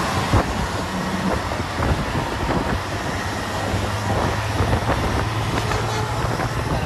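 Hino 1J bus's diesel engine running, with a steady low hum that grows stronger about four seconds in, amid a dense wash of rattles and clicks.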